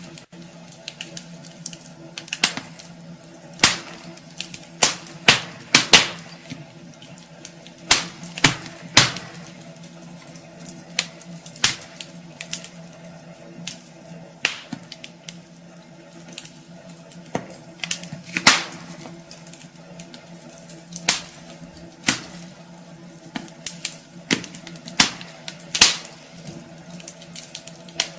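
Wood fire burning in a fireplace, crackling with irregular sharp snaps and pops over a soft steady hiss.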